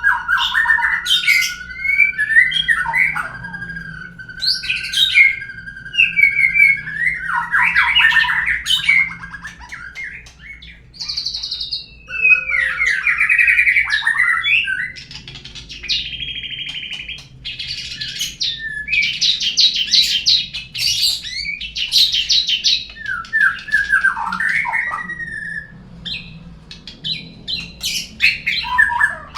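White-rumped shama (murai batu) song played as a lure track to set other shamas singing. It runs as a long, varied sequence: a long steady whistle over the first several seconds, then rapid trills, sharp chirps, gliding notes and buzzy rasping phrases, with short pauses between.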